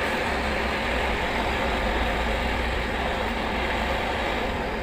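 A machine or engine running steadily: a constant low drone under an even hiss.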